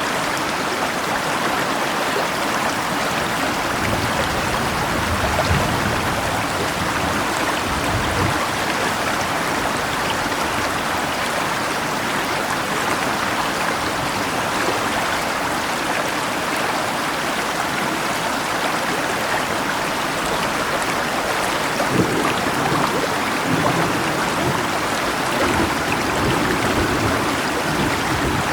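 A river flowing steadily, with rain falling. A few brief low surges come through, around a fifth and eighth of the way in and twice more in the latter part.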